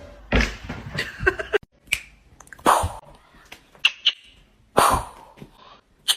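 A pet animal making a series of short, sudden sounds, roughly one a second.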